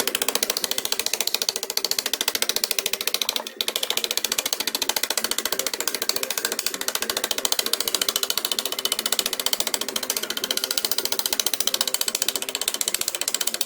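A metalworking tool running on sheet steel with a fast, even rattle, stopping for a moment about three and a half seconds in before carrying on.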